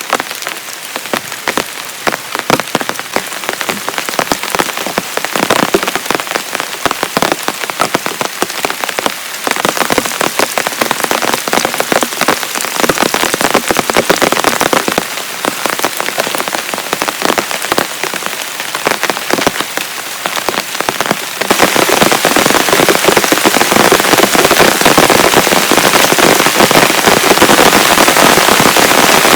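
Heavy rain falling, a dense patter of drops striking a surface. About three quarters of the way through it turns abruptly louder and denser, as in a harder downpour.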